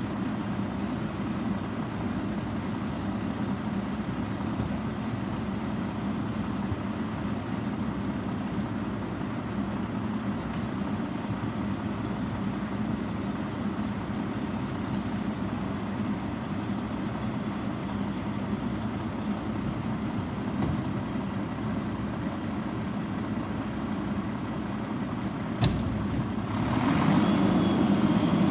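Garbage truck engine running steadily. About 26 seconds in there is a sharp click, then the sound grows louder with a hiss.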